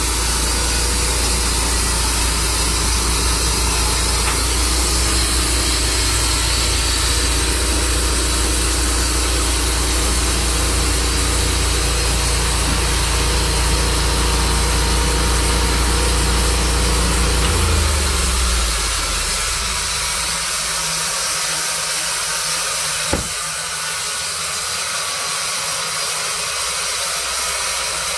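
Tru Cut sawmill's engine running steadily. Its low drone drops away about two-thirds of the way through, leaving a steady hiss, and a single sharp pop comes a few seconds later.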